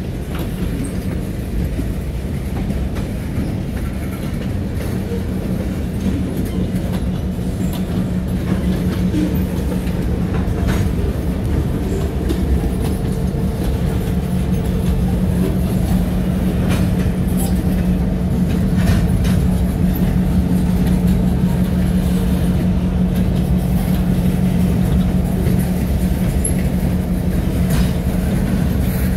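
Freight train rolling slowly past: railcar wheels clicking over rail joints over a steady low hum of diesel locomotive engines, growing a little louder toward the middle.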